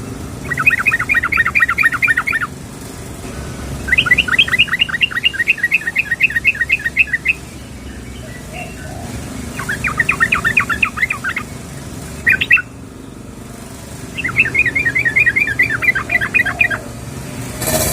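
Yellow-vented bulbul (trucukan) calling in fast, bubbly bursts of rapidly repeated notes, each burst about two seconds long, four times plus one brief snatch, with pauses between. The call is presented as a female calling to a male.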